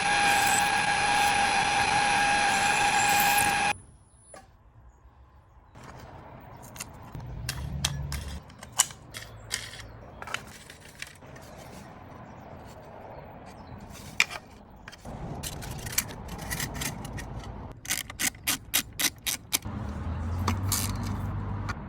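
A power tool runs with a steady whine and cuts off suddenly about four seconds in. Sharp metal clicks and taps from hand tools follow, with a quick run of ratchet-like clicks near the end.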